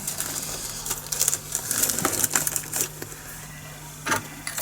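Small plastic drill bag crinkling and tiny resin diamond-painting drills rattling and clicking as they are tipped out, in scattered short clicks.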